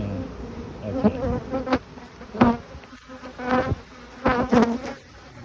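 Honeybees flying close around the microphone: a string of separate buzzes that rise and fall in pitch as individual bees pass.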